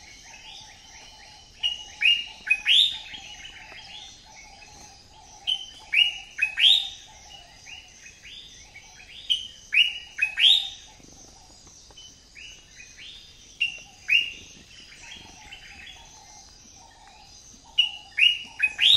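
Birds chirping: loud, short chirps that drop in pitch, coming in quick clusters of two to four every second or two.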